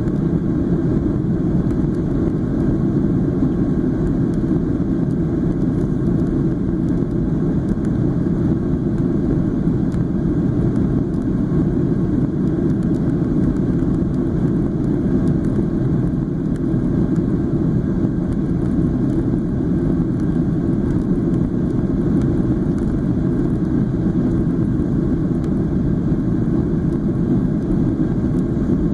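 Steady cabin noise inside a Boeing 737-800 in flight, from airflow and its CFM56 turbofan engines: an even, deep noise that does not change.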